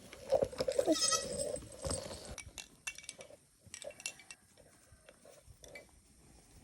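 A goat bleating, a wavering call over the first two seconds or so, followed by faint scattered clicks and knocks.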